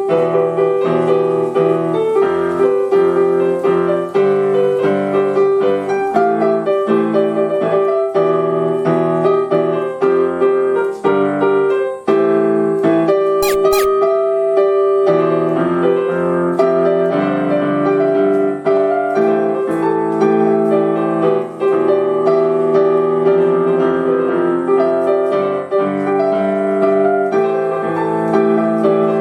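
Piano being played: a flowing melody over chords, with brief sharp clicks about thirteen seconds in.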